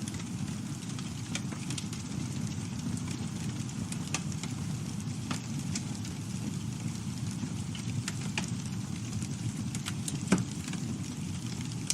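Campfire burning, with a steady low rumble and scattered small crackles. One louder pop about ten seconds in.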